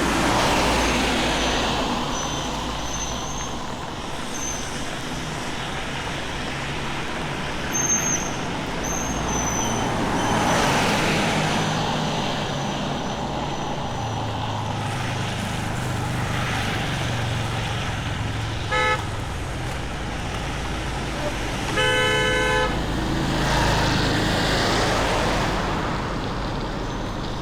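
Road traffic going by, with several vehicles swelling up and fading away over a steady background noise. A horn honks twice: a short toot about 19 seconds in and a longer honk a few seconds later.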